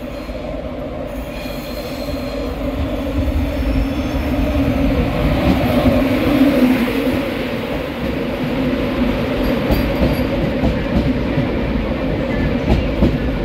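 LNER Class 91 electric locomotive and its Mark 4 coaches running along the platform. A steady rumble grows as the locomotive draws level about six seconds in, and wheel clicks follow as the coaches pass.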